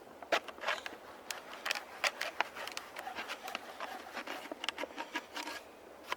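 Irregular crackles, clicks and scrapes of a plastic bottle being handled and worked with a knife, spaced unevenly, several a second at times.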